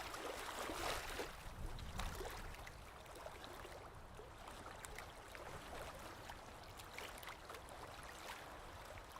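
Faint running, trickling water with small scattered splashes and drips.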